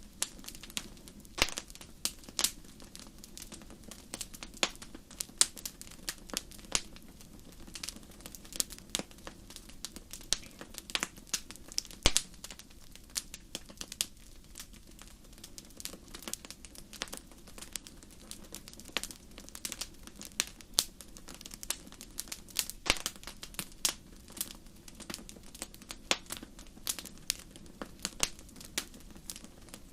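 Wood fire burning in a fireplace, crackling and popping: many sharp, irregular pops, a few of them loud, over a low steady rush of flame.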